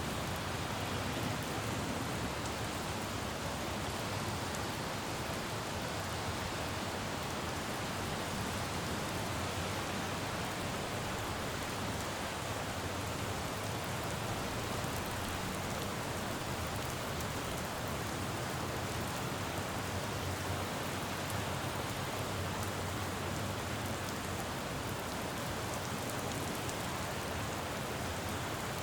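Steady rain falling on a city road, with a low, even rumble of traffic beneath it.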